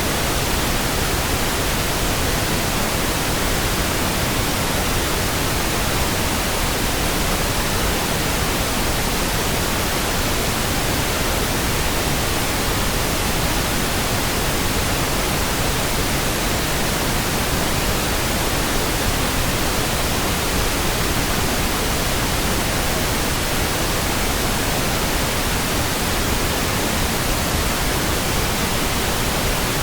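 Steady pink noise: an even, unchanging hiss spread across all pitches, with no tones, clicks or changes.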